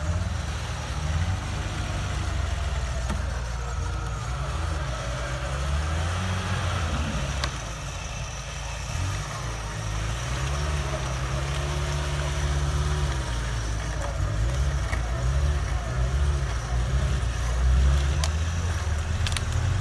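Lada Niva's engine revving and easing off again and again under load as the 4x4 pushes through deep mud, getting louder near the end.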